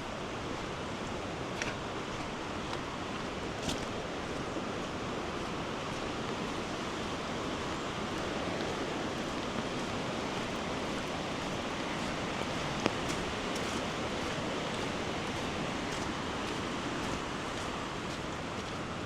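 Steady rushing of water, as from a swollen, fast-flowing river in flood, with a few faint scattered ticks.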